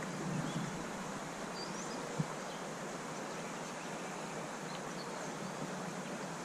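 Steady rush of flowing creek water, with a few faint bird chirps and a single soft knock about two seconds in.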